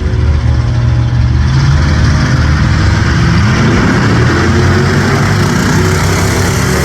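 A car engine running loudly and revving, its pitch rising over a couple of seconds in the middle.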